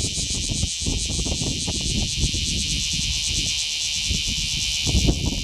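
A steady, high-pitched insect chorus buzzing with a fine pulsing, over irregular low rumbling noise that grows louder near the end.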